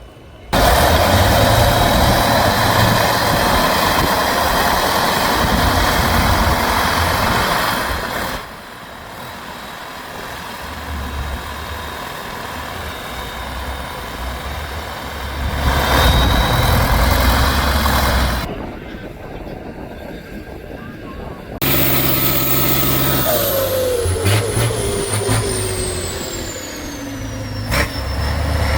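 Heavy off-road trial truck engines running and revving under load, in several shots that cut in and out abruptly. Over the last several seconds a whine falls steadily in pitch as the revs drop.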